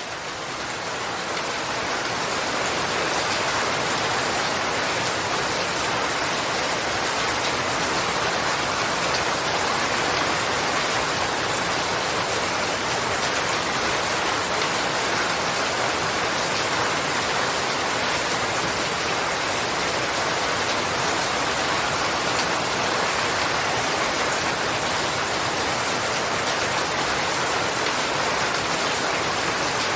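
Steady, dense rainfall hissing without a break. It fades in over the first few seconds, then holds an even level.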